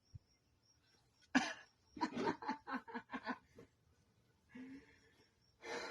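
A person laughing under their breath: a sharp breathy burst, then a run of about seven quick pulses, with a last breath near the end.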